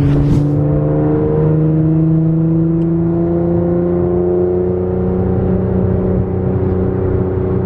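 A car engine running and slowly gaining speed, its hum rising gradually in pitch, heard from inside the car.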